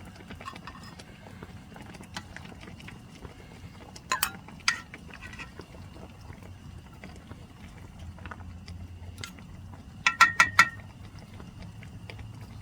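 A few sharp clicks or clinks: two about four seconds in, then a quick run of about five about ten seconds in, over a low steady background.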